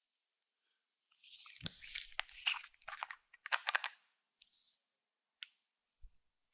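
Clear slime being squeezed and kneaded by hand, giving a dense run of crackles and pops about a second in that lasts some three seconds, then a few single pops.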